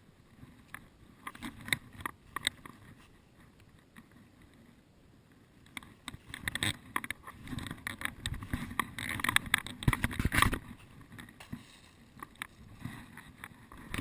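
Irregular crackling, rustling and soft thuds, as of a person moving through dry leaves and undergrowth in a forest, busier and louder from about halfway through.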